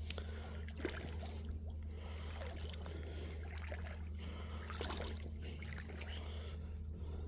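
Shallow creek water trickling, with a few small splashes and knocks from wading and handling things in the water, over a steady low hum.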